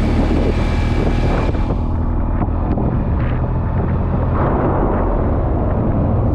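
Engine running with a steady low rumble, with wind buffeting the microphone.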